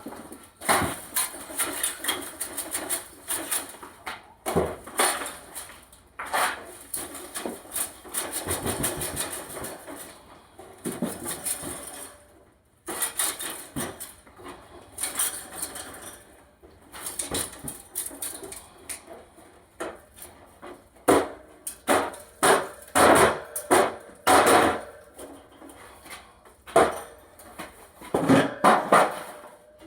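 Irregular knocks, clatter and scraping of objects being handled and set down, with rustling between them, in clusters separated by short pauses.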